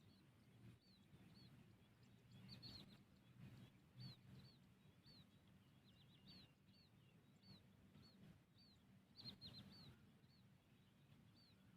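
Faint short, high chirps of a bird, repeated about once or twice a second and sometimes in quick pairs, over a faint low hum.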